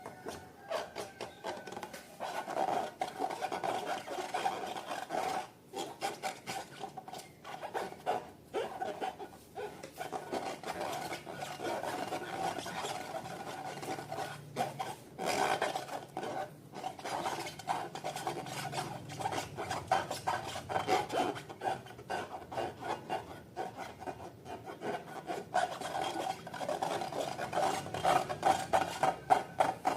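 Slime being mixed by hand: a continuous rubbing and scraping sound, thick with small sticky clicks.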